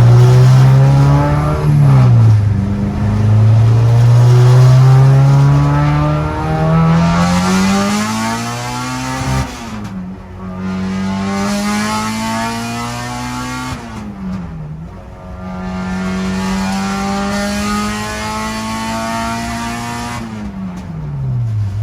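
Honda K20 four-cylinder in a Civic, breathing through a 3-inch exhaust with a resonator and no muffler, accelerating hard through the gears. The engine note climbs under load for several seconds and drops sharply at each gear change, about four times.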